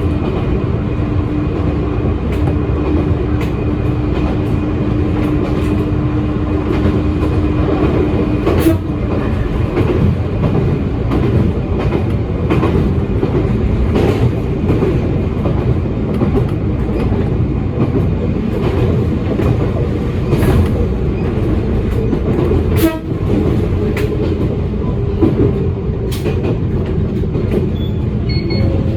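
Electric train running along the track, heard from inside the front car: a steady rumble with a hum that stops about a third of the way in, and a few sharp clicks as the wheels cross rail joints.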